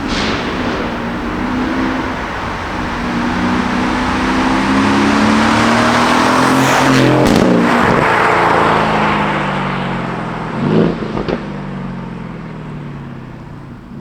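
2020 Aston Martin Vantage's twin-turbo V8 through a straight-piped Quicksilver exhaust, pulling with the pitch climbing. About seven seconds in there is a break with a couple of sharp cracks, then the revs fall away as the car slows, with more short cracks around eleven seconds.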